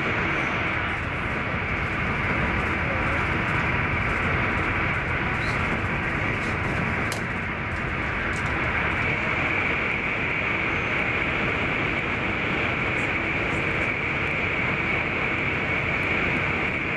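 Steady running noise inside the passenger cabin of an SJ X40 double-deck electric train at speed: wheels rolling on the rails and a rush of air, with a steady high whine over it.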